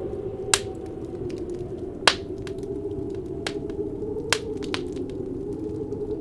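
Wood fire crackling with scattered sharp pops, three of them loud, over a steady low howling wind.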